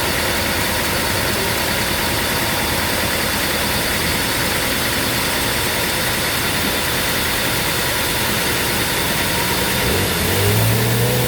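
Sawmill machinery running steadily with a constant engine-like noise. Near the end a deeper motor tone rises in and holds for a moment.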